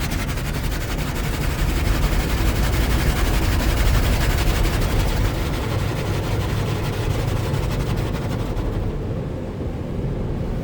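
Spinning car-wash brushes ("spinners") slapping against the car, heard from inside it, as a fast, even slapping over a low rumble; the slapping thins out about nine seconds in.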